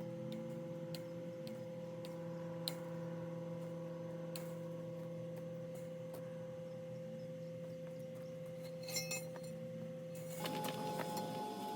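Steady mechanical hum made of several even tones, with scattered sharp clicks. Near the end the hum changes pitch and a busier metallic clinking starts.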